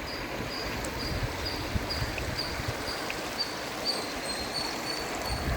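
Forest ambience: a high chirp repeats about three times a second and turns into a steadier high trill in the second half. Under it runs a constant rushing hiss with low rumbles.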